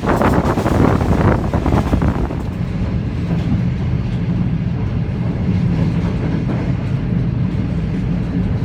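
Moving passenger train heard from on board: a loud rush of air and rail noise for the first two seconds or so, then a steady low running rumble with a hum.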